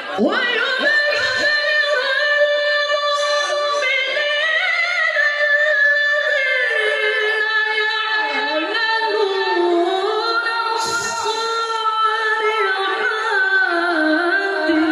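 A male qori reciting the Quran in melodic tilawah style, in a high voice: one voice holding long, ornamented notes with no break. It swoops up sharply at the start and sinks to a lower pitch over the last few seconds.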